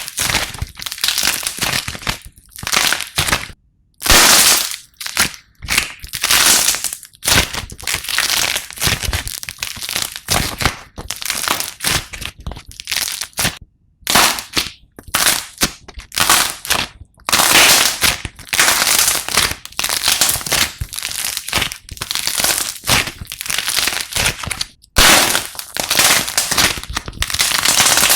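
Slime being squeezed and poked by hand, giving dense, irregular crackling and popping, broken by short pauses a few times.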